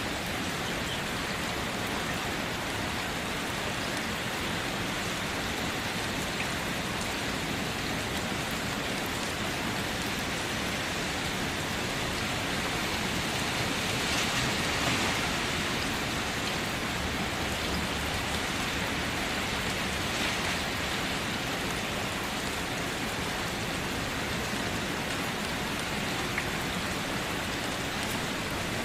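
Steady rain falling, a dense, even hiss of drops that swells slightly about halfway through.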